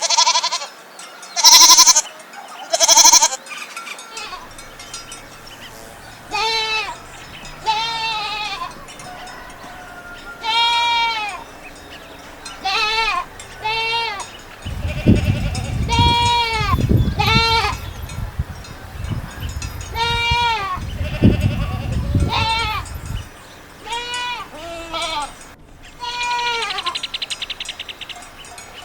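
Goats bleating, about a dozen separate calls spread through the stretch. A few short bright bursts come in the first few seconds, and a low rumbling noise runs through the middle.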